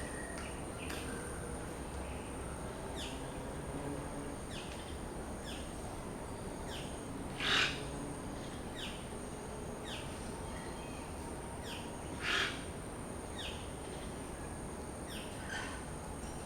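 Birds calling: a repeated series of short, high, falling chirps, with two louder calls about halfway through and a few seconds later, over a steady high-pitched whine.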